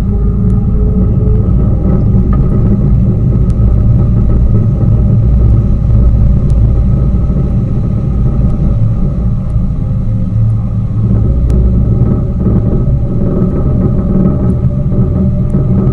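Tour boat's motor running steadily while under way, heard from aboard as a loud, even low rumble with a steady hum above it.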